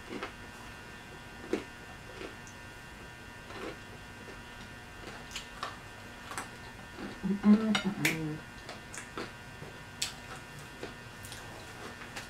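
Mouth sounds of someone eating pizza: scattered chewing clicks and lip smacks, with a brief vocal sound about seven to eight seconds in, over a faint steady electrical hum.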